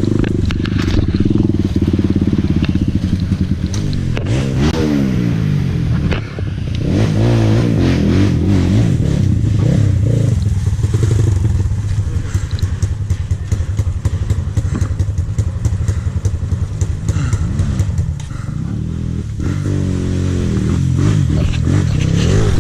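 Dirt bike engine running as the bike is ridden. Its pitch rises and falls repeatedly as the throttle is opened and closed, with clattering over it throughout.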